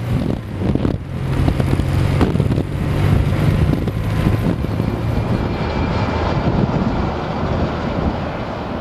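Motorcycle engine running steadily at road speed, with wind rushing over the microphone; the low engine note is strongest in the first half and then sinks into the wind noise.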